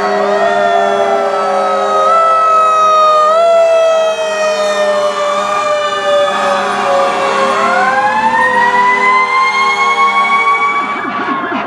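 Several fire truck sirens sounding together. One tone slowly falls over many seconds while wailing tones rise and fall over it, with steady low tones underneath. A fast warbling yelp starts near the end.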